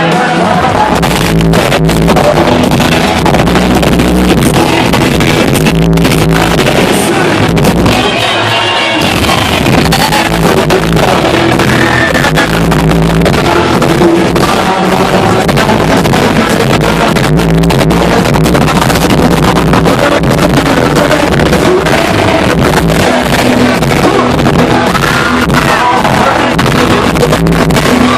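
Live country band playing loud, with electric guitars, drums and a man singing, heard from the crowd at a concert.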